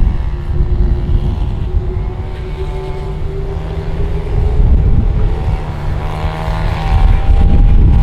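Jet airliner engines passing low overhead: a heavy rumble with a steady whine that rises slightly, growing louder about five seconds in and again near the end.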